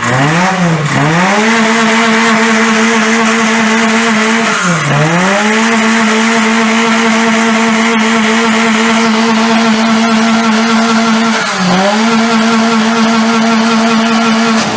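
Honda car engine held at high, steady revs. The revs drop and climb back quickly three times: at the start, about five seconds in and about twelve seconds in.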